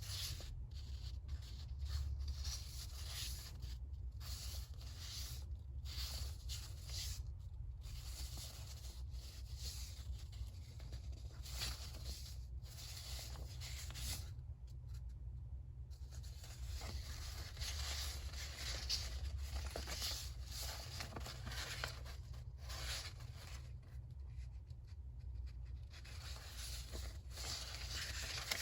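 Paper being handled at close range for a notebook collage: intermittent rustling and scratchy strokes with short pauses between them. A steady low hum sits underneath.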